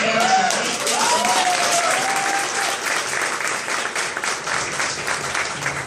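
Audience applauding, with a few voices calling out in the first two seconds.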